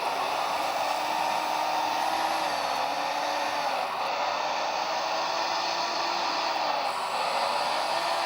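Simulated excavator engine and hydraulic sound played through the model's onboard soundboard and small speakers: a steady whirring hum whose pitch gently rises and falls as the digging functions are worked.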